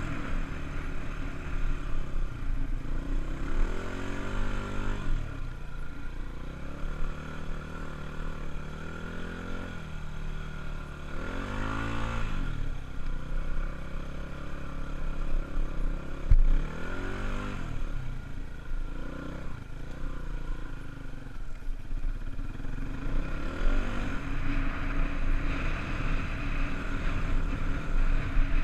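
Honda dirt bike engine being revved in repeated bursts of throttle, its pitch climbing and falling back about five times. There is a sharp knock about sixteen seconds in.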